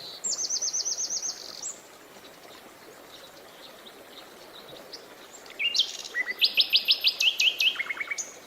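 Songbirds singing. A fast trill of about ten high notes runs over the first second and a half. After a pause, a louder song of quick repeated notes steps down in pitch near the end, over a faint steady rush of river water.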